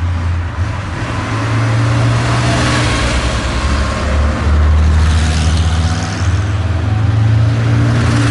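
Historic rally car engines running on the road, a low engine note that swells and eases over several seconds, with tyre and road noise.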